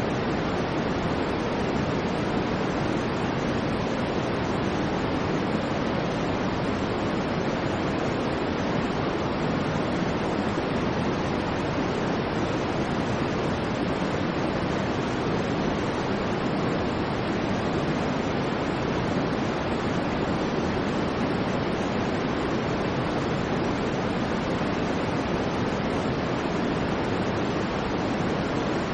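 Steady generated white-noise track: an even, unbroken rushing hiss at a constant level, its weight in the lower-middle range, with no swells or rhythm.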